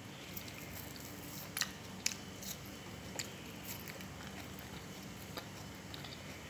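Faint, soft chewing of ripe jackfruit flesh, with a few scattered small wet clicks from the mouth and from fingers pulling bulbs out of the opened fruit.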